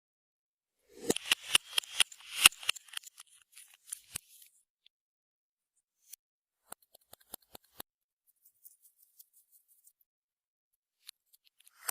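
Clear slime worked by hand, giving a dense run of sticky clicks and crackling pops about a second in, then a few scattered single clicks, with quiet gaps between.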